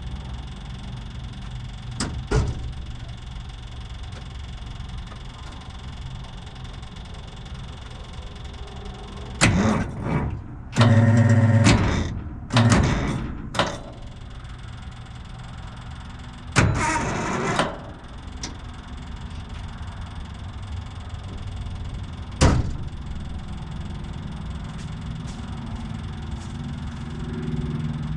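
Detroit Diesel 6-71 two-stroke diesel being cranked by its starter in a few short bursts of about a second each, over a steady low hum, with a couple of sharp clicks. The cranking does not catch and keeps cutting out: the batteries are running flat.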